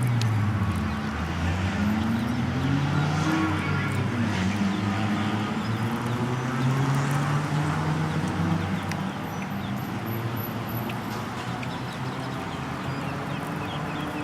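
A car engine running, its pitch slowly rising and falling as the engine speed changes.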